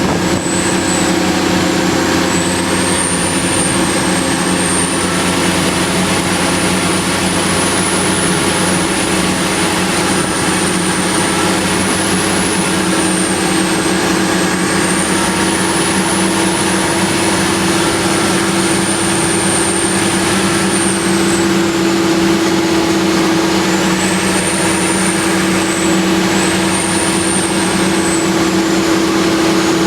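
Fire ladder truck's engine running under way, heard from the open cab with heavy wind and road noise. A thin high whine drifts up and down in pitch over it.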